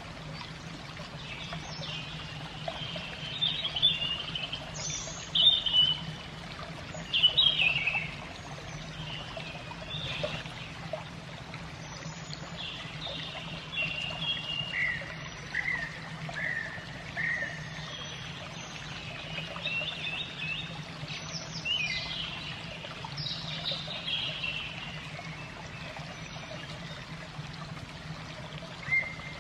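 Birds chirping in short, often falling calls over a steady trickle of running water, with a low steady hum underneath.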